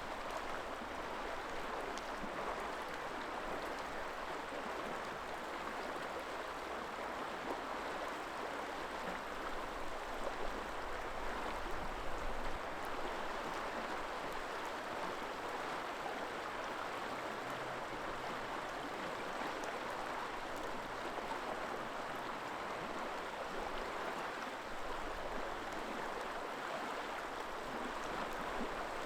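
A river flowing, a steady rush of running water, with low wind rumble on the microphone now and then.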